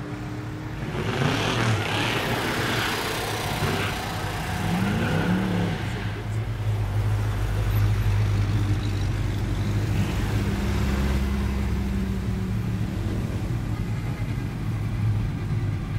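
Car engines idling and revving at a drag strip's starting line, with a loud rush of engine and tyre noise early on and a couple of quick revs a few seconds in. A car drives slowly past close by partway through.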